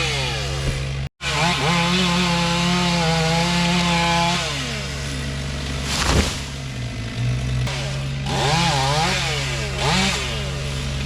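Chainsaw running and revving up and down while cutting a large tree, its pitch rising and falling with the load, over a steady low hum. The sound cuts out for an instant about a second in.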